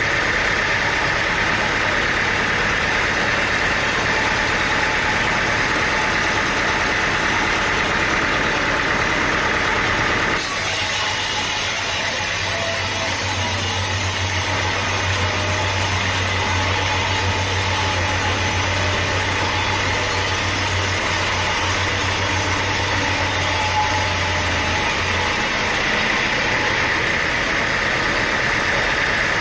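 An engine running steadily, typical of sawmill machinery at work. The sound changes abruptly about ten seconds in, with a low steady hum added, and switches back a few seconds before the end.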